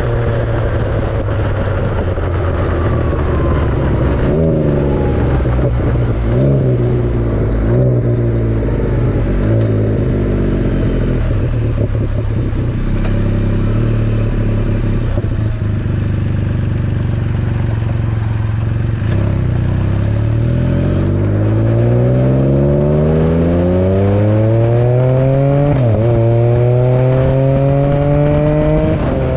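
Can-Am Spyder F3's three-cylinder engine and exhaust running under way: engine speed drops off, then the bike accelerates hard from about two-thirds of the way in, with a brief dip in pitch near the end like a gear change before it pulls on.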